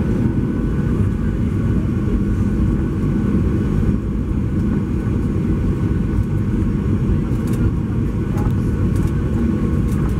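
Steady cabin noise inside a Boeing 737-800: a deep rumble from its CFM56-7B jet engines and airflow, with a faint steady whine.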